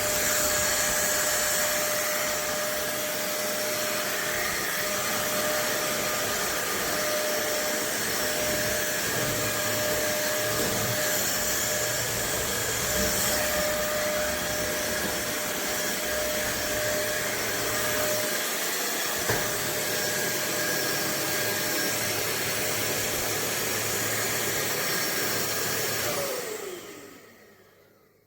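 Fieety cordless stick vacuum running steadily with a fixed whine, then switched off near the end, its motor winding down with a falling pitch. A single click about two-thirds of the way through.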